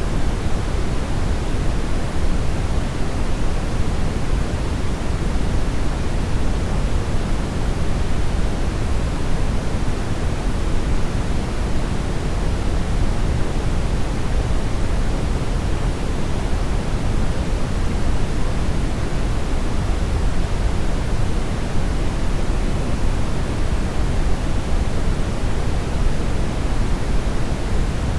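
Brown noise: a steady, unchanging hiss weighted toward the low end, with no tones or events.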